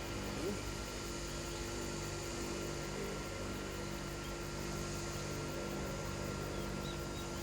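A motor running steadily at a constant speed, a level hum with several fixed tones that does not change.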